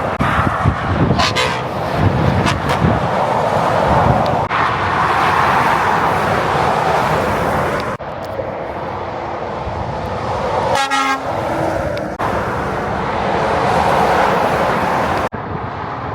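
Heavy motorway traffic from lorries and cars passing, a steady roar of tyres and engines. About eleven seconds in, a vehicle horn gives one short blast.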